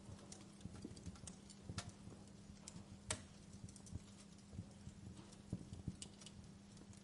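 Wood fire crackling in a fireplace: faint, irregular pops and snaps, with two sharper pops about two and three seconds in. A steady low hum lies under them.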